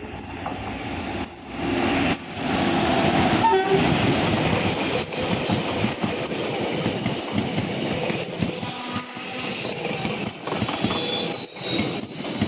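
Passenger train passing at speed. Its loud rushing rumble builds over the first two seconds as it arrives and carries a rhythmic clatter of wheels over rail joints. The horn sounds briefly about three seconds in, and a high metallic wheel squeal runs through the second half.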